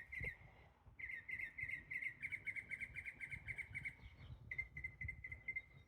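Northern mockingbird singing: runs of quick, repeated, chirpy notes, about five a second, in two phrases with a short break a little after four seconds.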